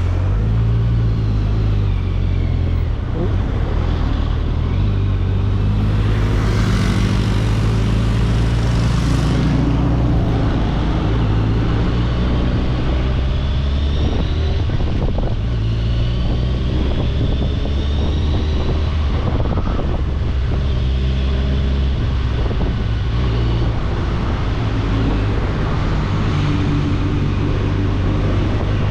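Kawasaki Ninja 1000SX's inline-four engine running steadily at low revs, its pitch shifting up and down as the bike is ridden.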